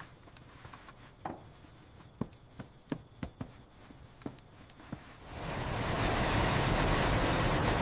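A cricket's steady high trill over scattered dripping ticks. About five seconds in, a loud rushing rumble swells in as a train approaches, and the trill is lost under it.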